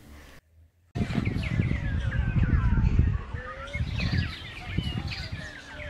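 Several small birds chirping and twittering, starting about a second in, over a loud, uneven low rumble.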